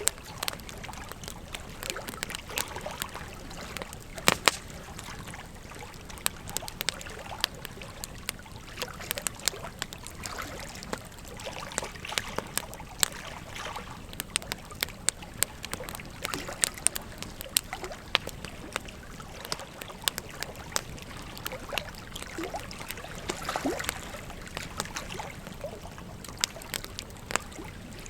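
Wood fire crackling with frequent sharp, irregular pops over the steady rush of a flowing river.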